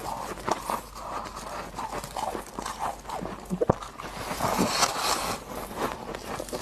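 Close-miked chewing of freezer frost ice: irregular hard crunches and crackles, with one sharp loud crack a little past the middle.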